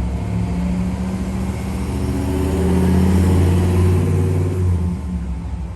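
Ice cream truck engine passing close by. It grows louder to a peak about three to four seconds in, then fades, with the truck's chime tune faintly over it.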